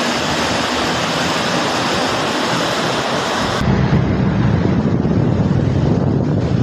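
Swollen Swat River floodwater rushing, a loud steady roar of water. About three and a half seconds in it cuts to another clip where the rush is deeper and rumblier, with less hiss.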